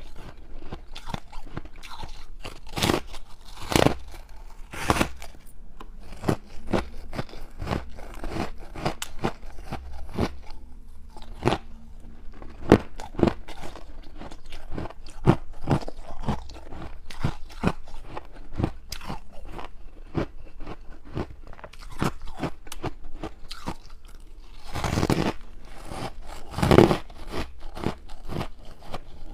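Close-up crunching and chewing of hard frozen ice: a steady run of sharp, irregular cracks, with louder bites about three to five seconds in and again near the end.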